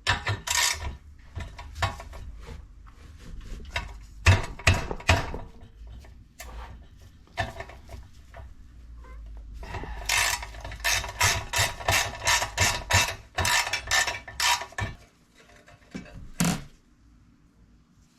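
Ratchet wrench clicking as 8 mm bolts are backed out of a small engine's shroud, with scattered metal clinks; about halfway through comes a steady run of quick even clicks, about three a second, for several seconds, and one loud clack near the end.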